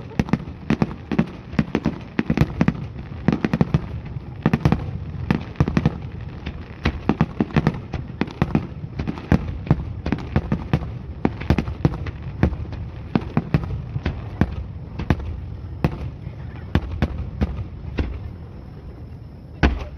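Fireworks display: a rapid, dense barrage of aerial shell bursts and crackling reports, several bangs a second over a continuous low rumble. Near the end the barrage thins out, ending with one loud bang.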